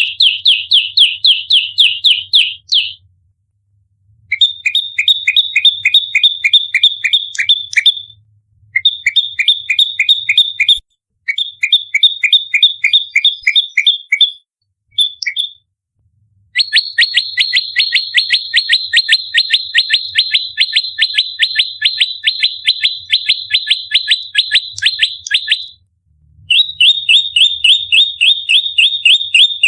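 Prenjak lumut (a prinia) giving its rapid-fire fighting call: sharp chirps repeated about eight a second in bouts of a few seconds, separated by short pauses. The longest bout runs about nine seconds.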